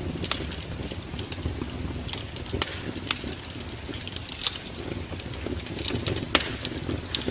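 Wood fire in a fireplace crackling: irregular sharp pops and snaps over a low steady rumble, with a couple of louder pops.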